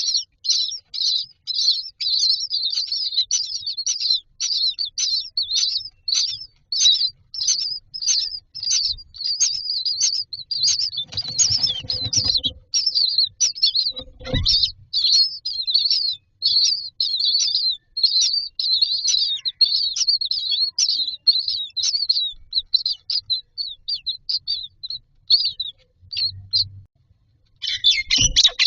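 Common myna chicks begging in a nest box: short, high, rasping calls repeated about twice a second. Partway through there is a low rustle and then a knock against the box, and the calls crowd together near the end.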